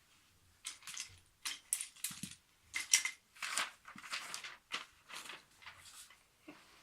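IKEA wooden toy train track pieces clacking and scraping as they are handled: a run of short, irregular clicks and rattles.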